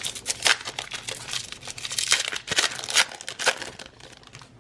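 Foil trading-card pack wrapper being torn open and crinkled by hand, a run of sharp irregular crackles that dies away near the end.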